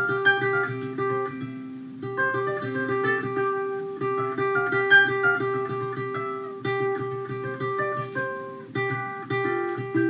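Solo ukulele playing an instrumental tune: quick plucked melody notes over a repeated ringing note, with no singing.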